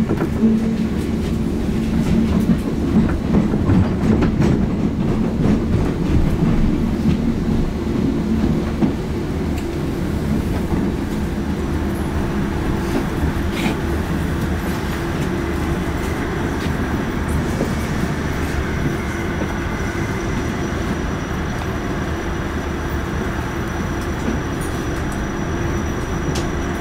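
Electric multiple unit heard from inside the carriage, running slowly into a terminus: wheels clattering over points and rail joints under a steady running rumble. The clatter is busiest and loudest for the first several seconds, then settles into a steadier run, with a faint high steady tone coming in about halfway through.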